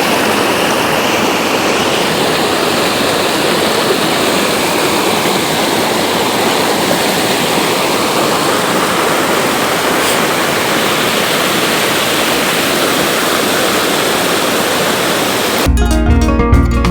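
Water of a small waterfall rushing and splashing steadily. Music with guitar and drums comes in near the end.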